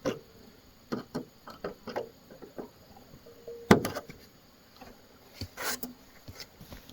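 Irregular light knocks and taps, with one sharper knock about halfway through and a brief hiss a little later.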